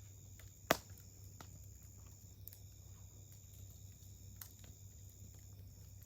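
Wood campfire crackling, with scattered sharp pops and one much louder pop just under a second in. A steady high tone runs underneath.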